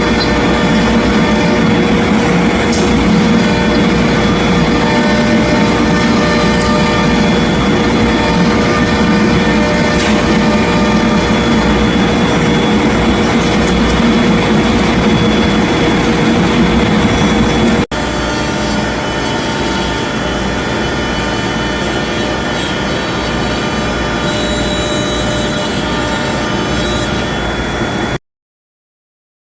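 CNC router spindle running and cutting exterior-grade MDF, a steady whine over dense cutting noise. The sound shifts slightly and drops a little in level about two-thirds of the way through, then cuts off suddenly near the end.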